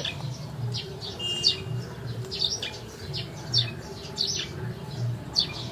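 Small birds chirping over and over: short, quick, downward-sliding chirps every half second or so, with a low rhythmic pulsing underneath.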